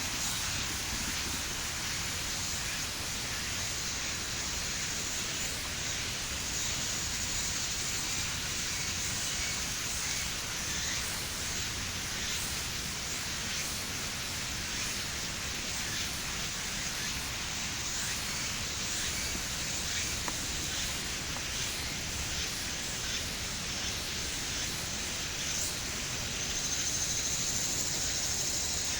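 Steady outdoor background hiss with no distinct events, strongest in the upper range and holding an even level throughout.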